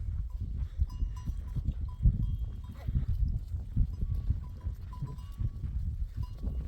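Herd of goats with small bells clinking in short, repeated tones, over a heavy, uneven low rumble.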